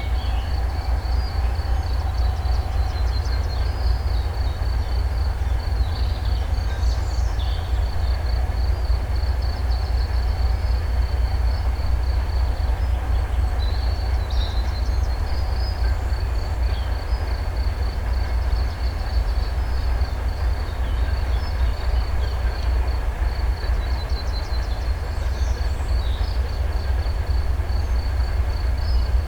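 Steady low rumble of an approaching 2M62U two-stroke diesel freight locomotive, still some way off, under birdsong with scattered short chirps and a continuous high pulsing trill.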